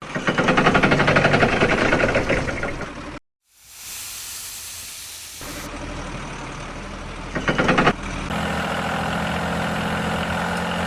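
A small engine running in several abruptly cut segments: a fast, pulsing run at the start, a stretch of steady hiss in the middle, and a steadier run near the end.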